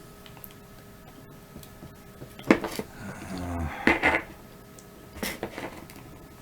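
Small stones knocking and clacking together as they are handled and set down, a few sharp knocks about halfway through and another just after.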